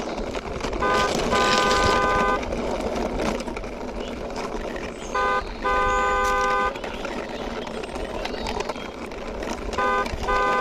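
A vehicle horn toots three times, each time a short beep followed by a longer one of about a second, over a steady rushing background noise.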